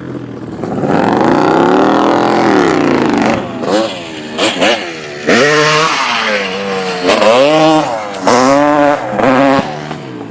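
Dirt bike engine revving up and falling back again and again as it is ridden, its pitch climbing and dropping several times with short throttle blips.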